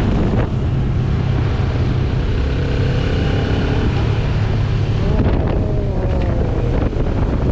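Benelli TRK 702 parallel-twin motorcycle engine running under way, with wind noise on the microphone. After about five seconds a falling tone is heard.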